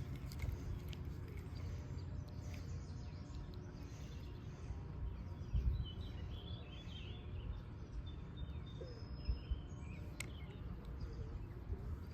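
Faint bird chirps over a low rumbling background noise, with a few short calls in the second half.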